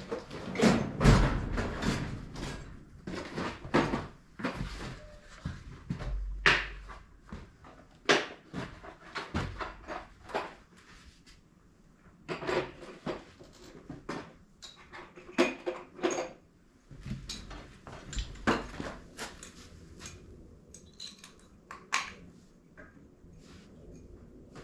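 Scattered knocks, clicks and clatter of hand tools and parts being picked up, handled and set down, busiest in the first few seconds.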